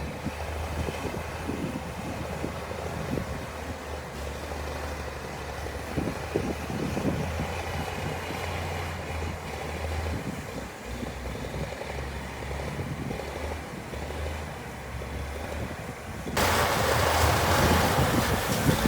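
Heavy diesel earthmoving machinery running steadily with a low engine rumble, with wind buffeting the microphone. About two seconds before the end the sound cuts abruptly to a louder, harsher engine noise.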